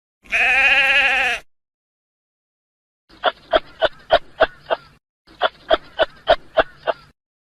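A long bleating animal call with a wavering pitch, followed after a pause by two runs of short sharp pulses, about four a second.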